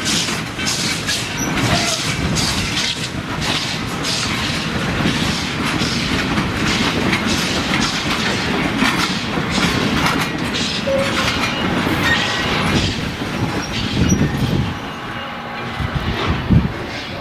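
A train moving along the track, a steady rumble with wheels clicking and clattering over rail joints.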